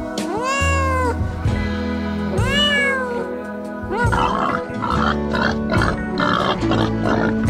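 A cat meowing twice, each a long call that rises and then falls in pitch, over background music. From about four seconds in, a quick run of short, repeated calls from another animal takes over.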